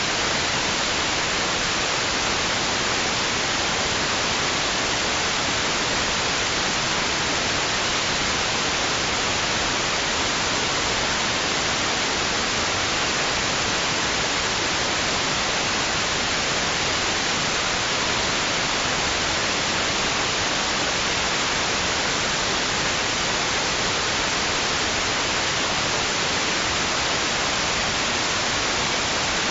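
Steady white noise: an even hiss that never rises, falls or pauses, brighter in the high range than the low.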